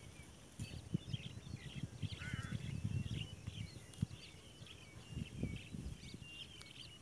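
Small birds chirping and twittering continuously, with irregular low rumbling thumps underneath.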